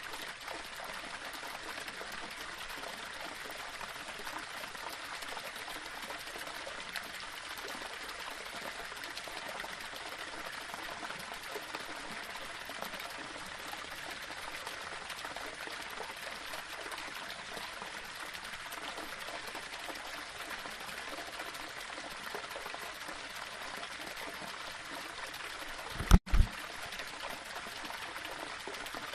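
Small waterfall flowing steadily over rocks, an even rush of water. Near the end a brief, loud low thump cuts in with a split-second dropout.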